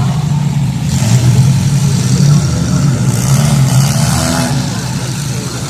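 Compact demolition derby cars' engines running and revving loudly, several at once, the pitch rising and falling.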